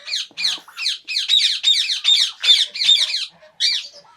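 Parrot squawking in a fast run of harsh calls, each dropping in pitch, about four a second, with a short break and one last call near the end.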